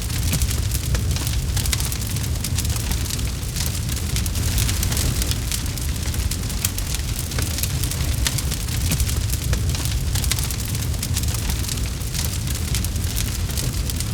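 Campfire crackling: many quick, sharp pops and snaps over a low steady rumble.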